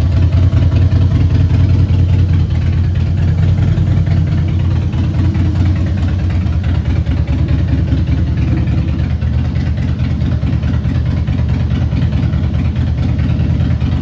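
Harley-Davidson Softail Deuce's V-twin engine idling steadily with a low, uneven rumble, easing slightly about nine seconds in.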